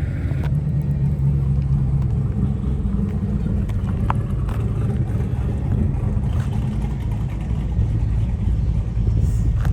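Steady low engine and road rumble of a car being driven, heard from inside the cabin, with a couple of faint ticks about four seconds in.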